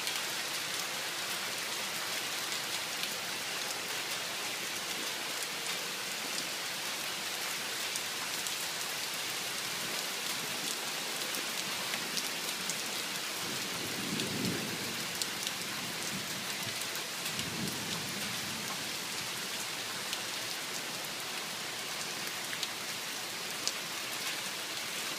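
Heavy downpour: dense, steady rain hiss. A low rumble of thunder swells about halfway through, with a second, weaker roll a few seconds later.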